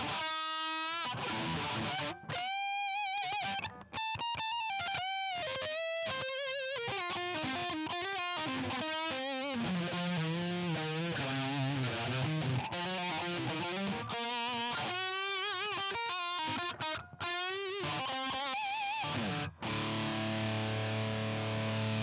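Electric guitar through a CoolMusic Insane Distortion pedal, playing a distorted lead line of single notes with wide vibrato. A few lower notes come in the middle, and it ends on a held chord near the end.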